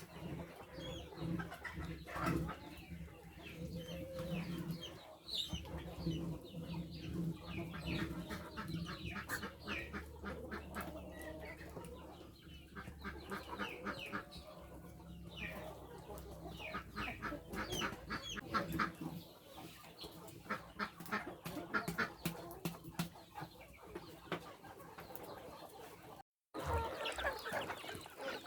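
Farmyard chickens clucking repeatedly over a steady low hum, broken by a brief gap near the end.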